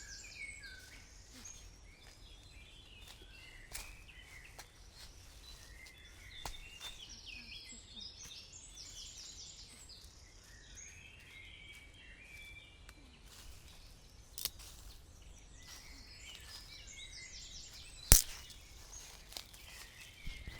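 Several birds calling in repeated chirping phrases, with scattered sharp clicks and one loud snap near the end.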